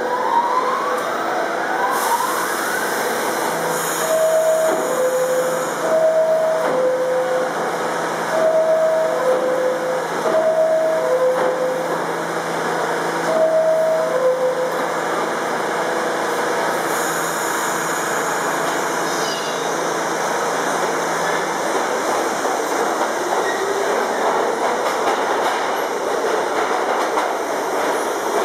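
R68 subway train in the station: a descending two-tone door chime sounds about five times over a steady electrical hum, then the motors' whine rises in pitch as the train starts moving, over the rumble of the cars.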